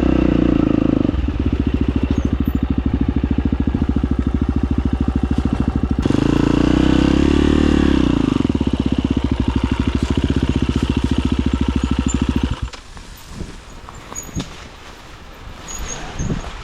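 Husqvarna FE250 four-stroke single-cylinder enduro motorcycle engine running at low revs, with one rise and fall of the throttle midway. The engine cuts off suddenly about twelve and a half seconds in, leaving a few light knocks.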